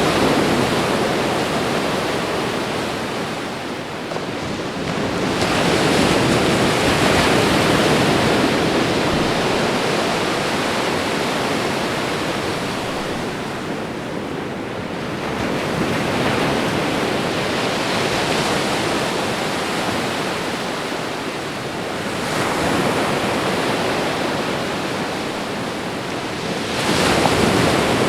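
Ocean waves washing onto a shore: a steady rush of surf that swells and ebbs every several seconds, with a fresh surge near the end.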